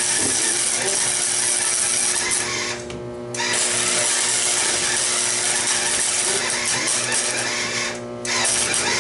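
Electric arc welder laying a weld on steel: a steady crackling hiss over a low electrical hum, stopping briefly twice as the arc is broken and struck again.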